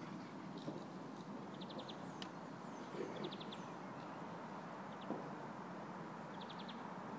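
A small bird repeating a short, very fast trill of four or five high notes three times, with a few single chirps between, over a steady low background hum.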